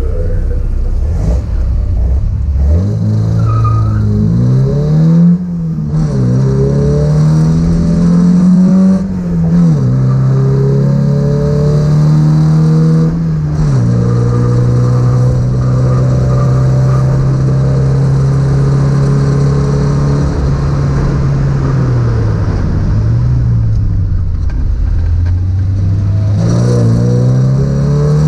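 MGB's engine heard from on board: idling low at the start line, then about three seconds in pulling away hard, its note climbing and dropping back at each of three upshifts before holding steady at speed. Near the end the note falls as the car slows, then climbs again as it accelerates.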